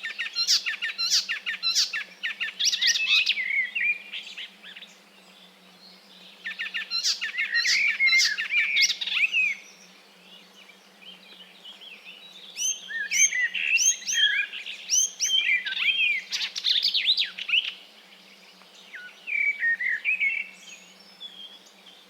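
Several songbirds singing in a morning chorus: bouts of rapid chirps, trills and whistled phrases, with short quieter gaps between them.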